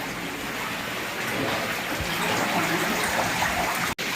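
Steady rush of running water from a stream flowing through a cave. It cuts out for an instant near the end.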